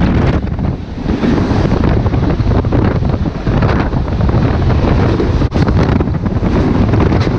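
Wind buffeting the microphone over the loud, continuous rumble and clatter of a Mumbai EMU local train running at full speed through a tunnel, with another train passing close alongside.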